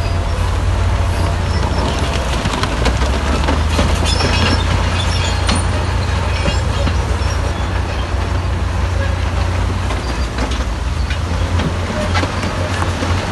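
Diesel engine of a Shantui DH17C3 crawler bulldozer running steadily under load, a deep rumble, with frequent short clanks and scrapes from its steel tracks and the stones it is working.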